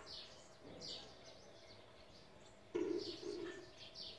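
Small birds chirping in the background, a few short falling chirps. About three seconds in comes a brief low two-part sound, louder than the chirps.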